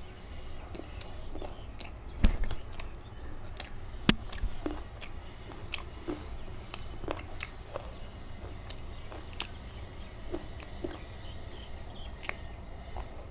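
Close-miked eating sounds: scattered wet mouth clicks and chewing of biryani. Two louder knocks come about two and four seconds in.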